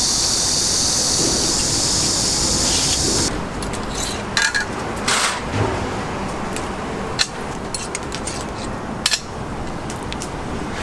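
A steady high hiss that cuts off abruptly about three seconds in, followed by scattered clinks and knocks, like metal and glass objects being handled.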